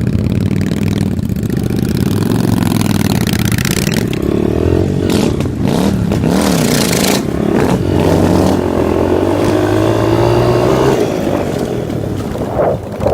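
Motorcycle engine running on the move, revs rising and falling, with one long climb in pitch near the end before it drops back. Bursts of rushing noise come about midway through.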